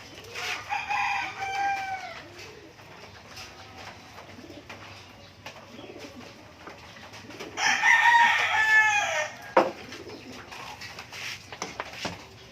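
A rooster crowing twice, each crow lasting a little under two seconds and dropping in pitch at its end.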